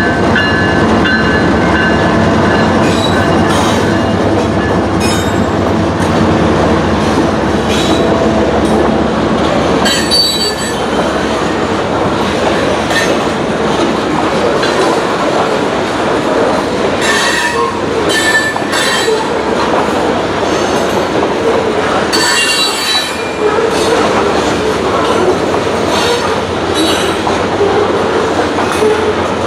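The trailing GE diesel locomotives of a freight train run past close by. From about ten seconds in, loaded covered hopper cars roll by, their wheels clacking over the rail joints, with short wheel squeals now and then.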